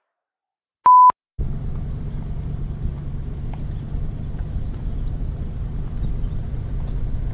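A short electronic beep at one steady pitch about a second in, then a steady low rumble with a faint high whine above it.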